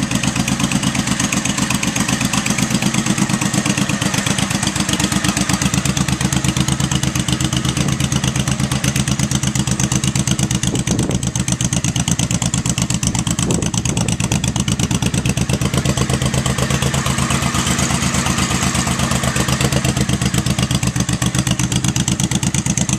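Honda Shadow's V-twin motorcycle engine running steadily in an even, rapid pulsing beat, without revving.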